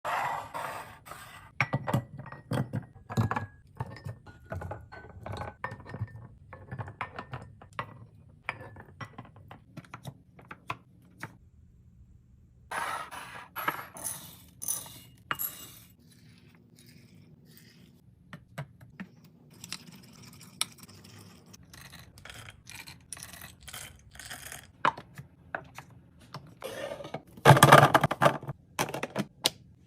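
Food containers, jars and bottles knocking and clinking as they are handled and set down while a fridge is restocked. Some of the clinks ring briefly. There are two longer noisy stretches, the loudest near the end.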